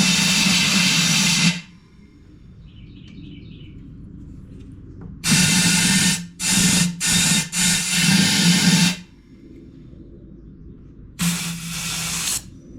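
Compressed-air blow gun fired in short, loud bursts of hissing air to blow out a lawn mower carburetor: one burst, then four quick blasts in a row, then another.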